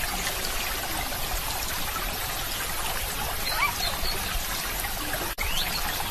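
Stream water trickling steadily, with a few faint short chirps; the sound cuts out for an instant about five seconds in.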